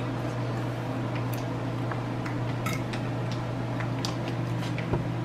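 A man chewing food, with faint mouth clicks and the odd light click of a fork against a plate, over a steady low hum.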